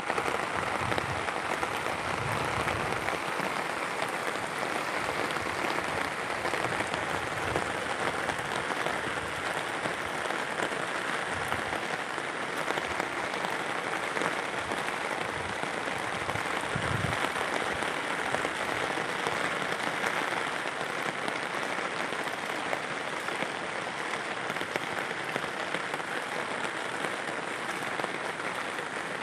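Steady rain falling, a dense even patter that does not let up.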